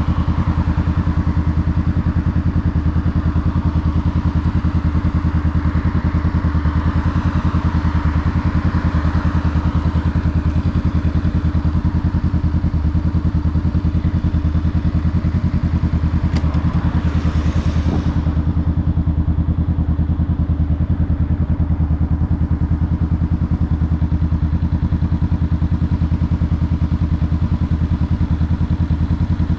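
Honda Rebel 500's parallel-twin engine running at a steady, unchanging engine speed. About halfway through, a rushing noise swells and then fades.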